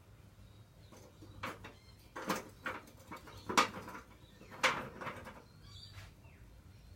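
About five separate knocks and clunks spread over a few seconds, with quieter rustling and scraping between them: hard objects being handled and set down.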